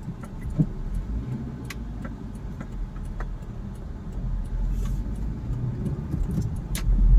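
Hyundai i10's 1.2-litre Kappa four-cylinder petrol engine and road noise heard from inside the moving car, a steady low rumble with scattered light clicks and rattles. It grows louder from about four seconds in.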